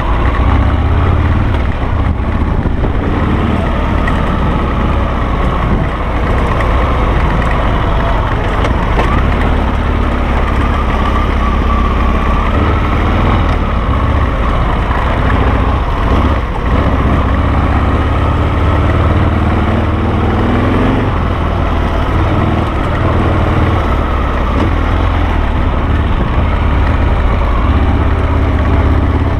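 Harley-Davidson Sportster V-twin engine of a dual-sport motorcycle running under way on a trail. The engine note rises and falls with the throttle.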